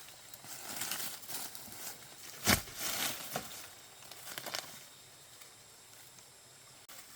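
Irregular rustling and crunching, like movement through dry leaves and undergrowth, with one sharp knock about two and a half seconds in; it goes quieter for the last two seconds.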